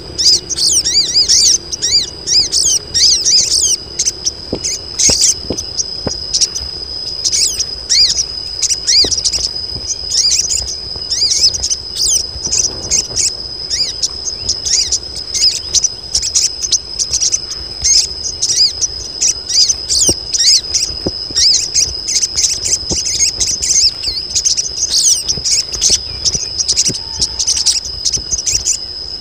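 A group of female sogon birds calling in breeding condition, the calls used to lure males: a busy, unbroken stream of quick high chirps. Under it runs a steady high insect trill.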